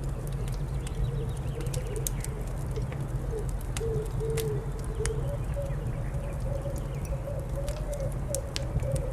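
A fire crackling with scattered sharp pops over a steady low rumble, and a low, wavering bird call of cooing notes running through it.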